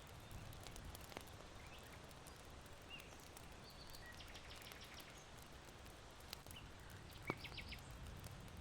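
Small birds chirping and trilling faintly over a soft, steady rush of wind, with a few sharp pops from burning charcoal in an irori hearth.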